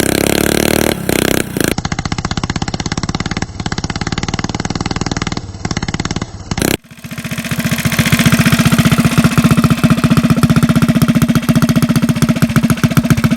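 Mini bike's 196cc single-cylinder four-stroke engine running, loud and fast-firing. Its sound changes abruptly twice and is louder and steadier through the last half.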